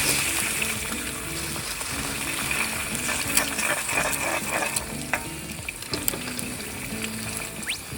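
Food sizzling as it fries in a pan, a steady hiss with a few sharp clicks partway through. Background music plays under it.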